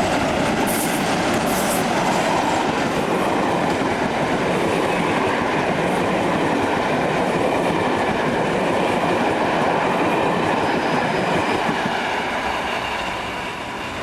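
A train running past on the rails, a steady loud rumble of wheels and carriages that starts to fade near the end as it moves away.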